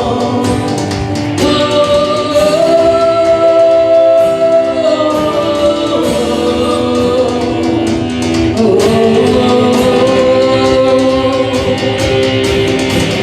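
Worship music: voices singing long held notes over guitar accompaniment.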